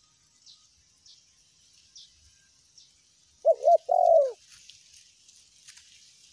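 Spotted dove cooing once about halfway through: a three-note phrase of two short notes followed by a longer, falling note. Faint high chirps repeat roughly once a second in the background.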